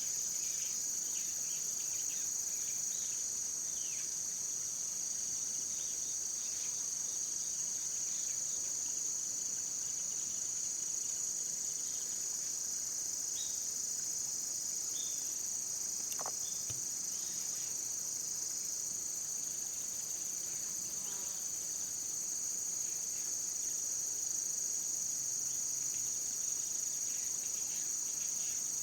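Steady, continuous high-pitched insect chorus, a constant trilling drone with no breaks, with a few faint short chirps scattered through it.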